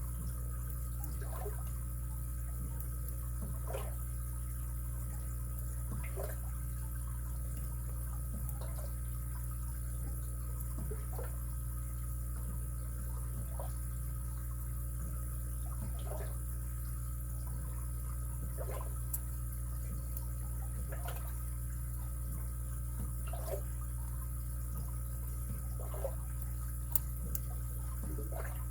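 Steady low hum, with faint short scrapes and ticks every two to three seconds from lock picks working the pins of a padlock.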